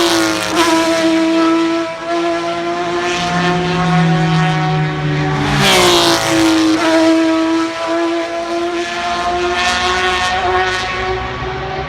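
Race cars running at high revs on the circuit: a steady, high engine note that drops in pitch as cars pass, right at the start and again about six seconds in.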